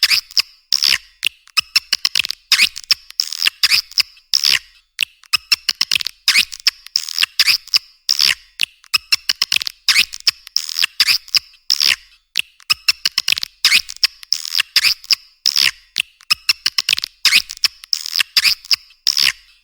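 Swiftlet lure call recording: rapid, sharp twittering clicks and chirps in dense clusters separated by short gaps, high-pitched with nothing low.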